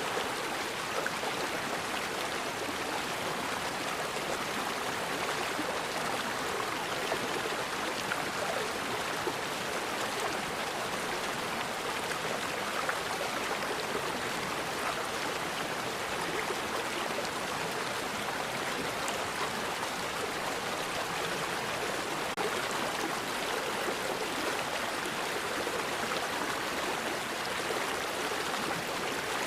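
Forest river flowing steadily: a continuous rush of running water.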